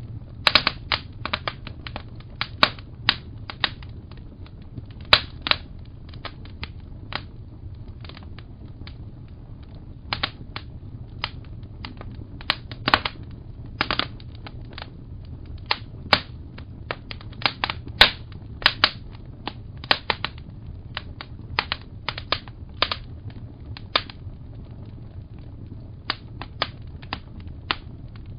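Wood fire in a fireplace crackling, with irregular sharp pops and snaps, a few a second and sometimes in quick clusters, over a steady low rumble.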